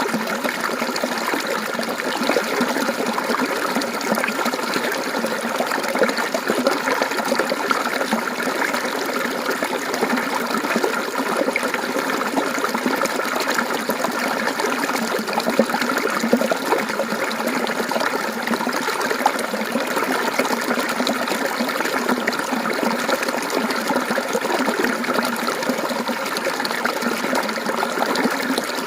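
Mountain stream running steadily over rocks, a continuous burbling trickle.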